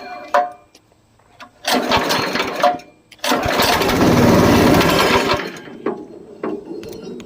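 208cc single-cylinder small engine being pull-started: a short cranking burst, then it fires and runs loudly for about two seconds before dying down to a weak sputter. It is acting as if it is not getting fuel.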